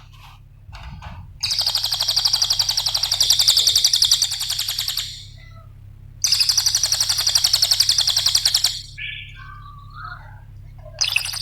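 Cililin songbird singing long, rapid-fire trills of fast repeated notes, three bursts of several seconds each, with a few softer short chirps between the second and third.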